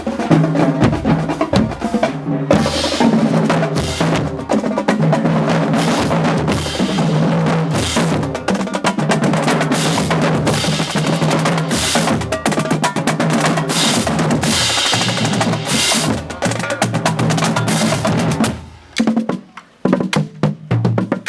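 Marching band playing loudly, brass horns holding notes over a driving snare and bass drum beat. Near the end the horns stop and only the drumline's separate strokes carry on.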